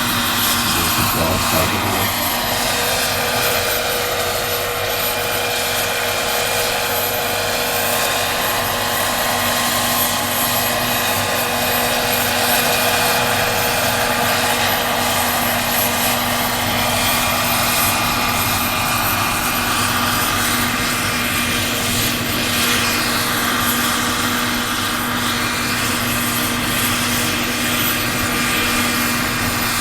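Turbine-powered large-scale RC model helicopter (Agusta AW109 K2) in flight: a steady high turbine whine over the chop of the main rotor. The pitch bends down and back up near the start and again a little past twenty seconds in.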